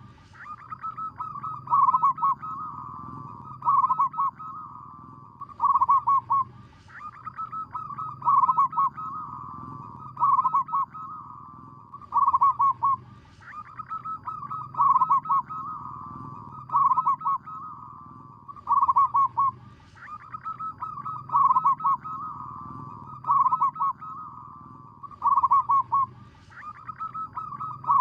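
Zebra dove (perkutut lokal / merbok) singing its rapid staccato cooing song, a loud phrase about every two seconds, repeated evenly throughout.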